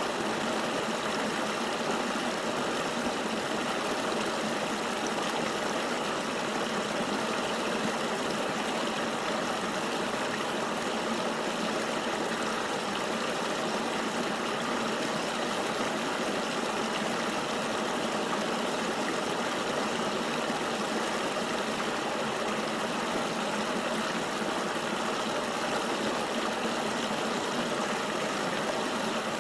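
Steady rushing of flowing river water, an even hiss with no breaks and no changes in level.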